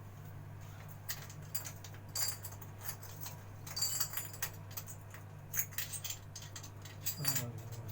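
Scattered light metallic clinks and taps, like small metal tools and fittings being handled, over a steady low hum.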